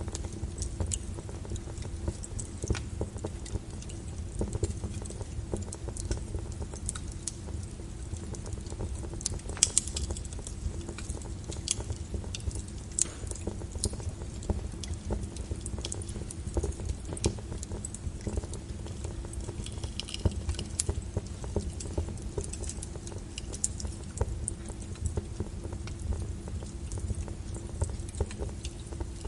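Wood logs burning in a fireplace: irregular crackles and pops over a low, steady rumble of the fire, with one louder pop about ten seconds in.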